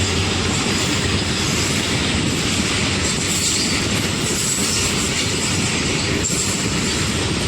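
Goods train passing close by: continuous rumble and clatter of its wheels over the rails.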